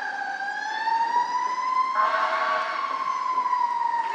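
Siren wailing, one tone slowly gliding down, up and down again, over steady traffic-like noise.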